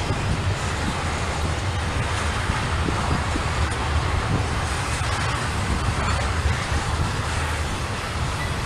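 A passing freight train giving a steady low rumble that holds without a break.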